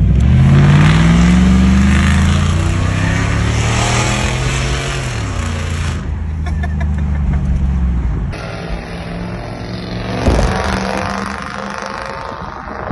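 Mercury Grand Marquis V8 engine pulling away and accelerating hard. Its note rises over the first two seconds, holds, and drops about five seconds in. Quieter steady driving noise follows, with a brief thump near the end.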